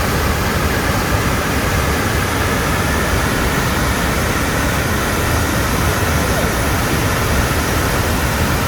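Waterfall pouring and splashing, a loud, steady rush of water noise.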